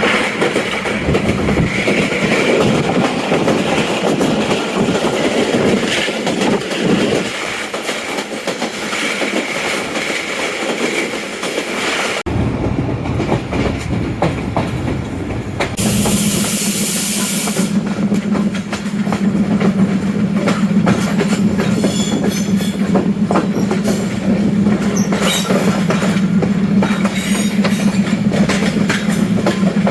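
Passenger express train running on the rails, its wheels clicking over the track joints with occasional wheel squeal. About 12 seconds in the sound changes abruptly, and from about 16 seconds a steady low drone runs underneath.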